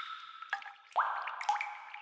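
Water drops falling into a pool in a cave, each a quick rising plink that rings on and dies away in the echo. About three drops land, half a second apart, and the one about a second in is the loudest, while the ring of an earlier drop fades at the start.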